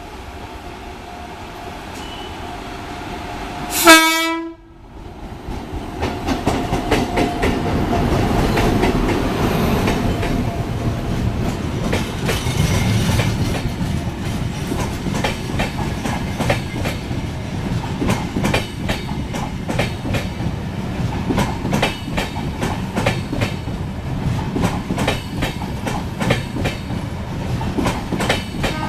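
Humsafar Express passenger train passing close by: a short, loud blast of the locomotive's horn about four seconds in, then the steady rumble of the coaches with a rapid clickety-clack of wheels over rail joints.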